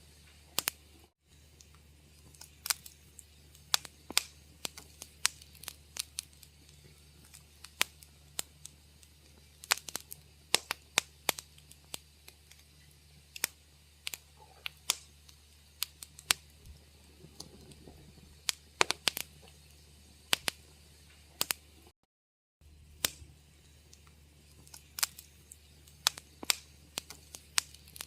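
Wood fire crackling in a fireplace: irregular sharp pops and snaps over a faint steady low rumble. The sound cuts out completely for a moment about a second in, and again for about half a second later on.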